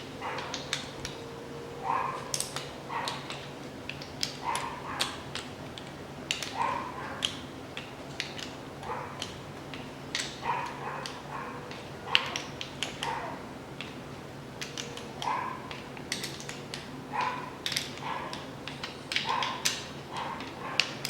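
A dog yipping and whining in short repeated cries every second or two, over sharp metallic clicks and taps from bolts being tightened on an engine.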